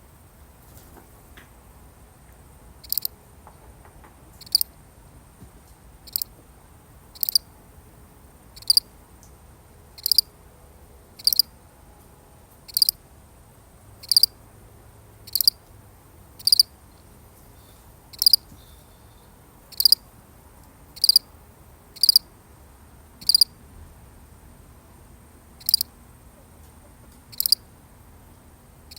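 A single cricket chirping: short, high chirps about every second and a half, starting a few seconds in, with one longer pause near the end.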